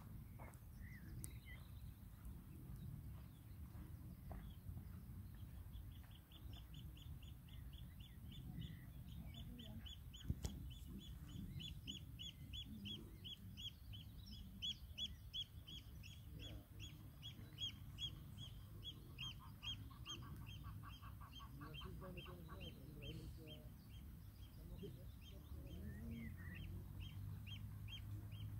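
A bird calling in a long run of quick, evenly repeated short high notes, joined for a few seconds by a second, lower and faster series, over a faint low rumble.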